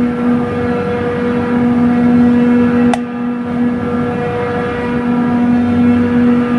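Chiller compressor plant running: a loud steady hum with a strong low tone and its overtone over a machine drone, and a single sharp click about three seconds in.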